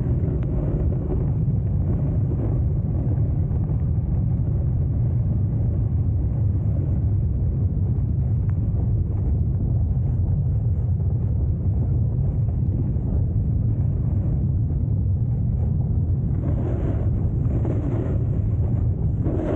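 Wind buffeting the microphone of a camera moving down a ski slope: a steady, loud low rumble, with more hiss coming in near the end.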